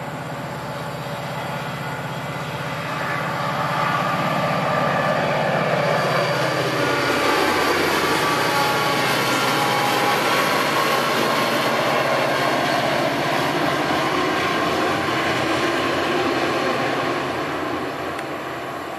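MARC commuter train passing: the diesel locomotive's engine drone drops in pitch as it goes by. It is followed by the steady, loud rolling noise of the passenger coaches on the rails, which fades near the end.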